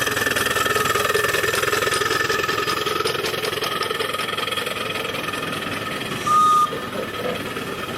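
An engine running steadily, with one short, high whistle toot about six seconds in.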